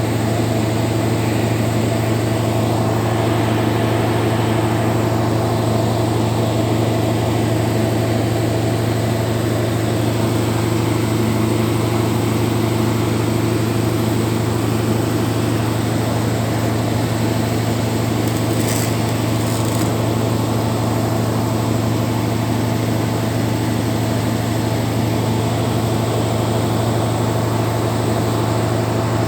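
Air conditioning compressor running with a loud, steady hum.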